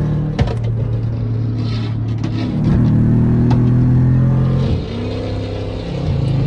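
Car engine held at high revs, its note stepping up about two and a half seconds in, dropping near five seconds, then climbing again, with a few sharp pops.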